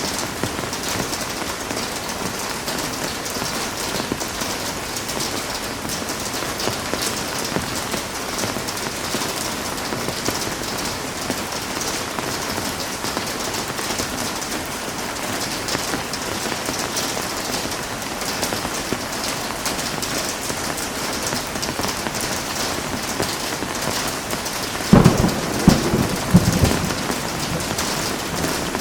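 Heavy rain falling steadily, with a rumble of thunder near the end that cracks several times over about two seconds and is the loudest thing heard.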